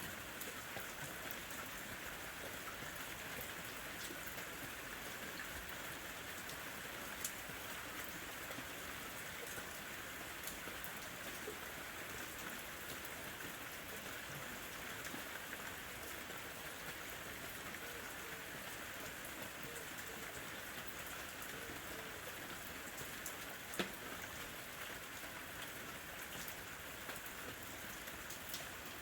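Steady summer rain falling lightly, an even hiss with scattered individual drops ticking, one sharper drop about two-thirds of the way through.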